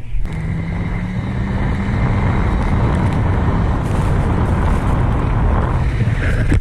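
Small motor vehicle engine running hard and close. A steady engine note for the first two seconds or so gives way to a denser, rougher noise, and the sound cuts off suddenly at the end.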